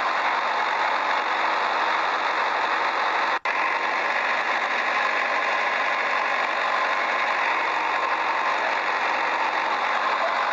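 A motor running steadily, with a brief cut-out about three and a half seconds in.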